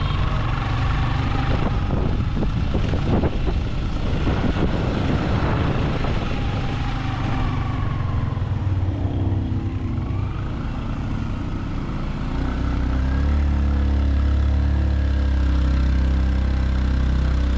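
Motor vehicle engine running with road and wind noise, noisier in the first half; from about twelve seconds in a deeper, steady engine note takes over.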